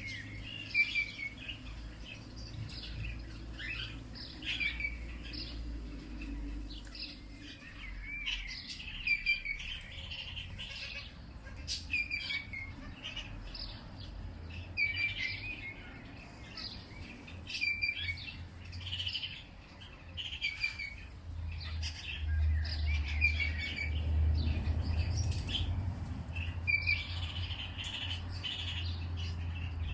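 Songbirds chirping and trilling in short phrases every second or two, over a low rumble that grows louder in the second half.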